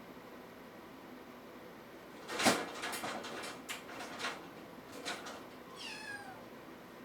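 A kitten gives one short, falling mew near the end. Before it, from about two seconds in, comes a run of sharp clicks and rustles, the first of them the loudest.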